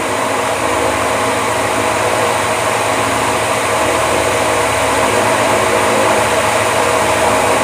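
Steady machinery noise from a ship's engine room: an even hiss with a running engine's low hum beneath it.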